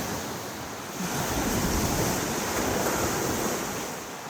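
Surf washing in: a steady rushing of waves that swells about a second in and eases off near the end, with wind buffeting the microphone.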